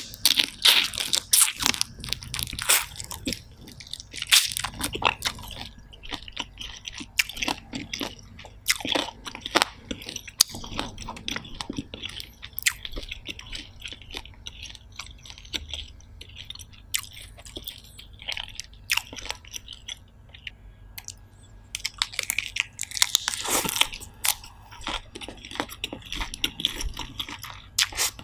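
A person chewing a mouthful of seafood, close-miked: wet, crunchy mouth sounds made of many quick irregular clicks, busiest at the start and again about three-quarters of the way through.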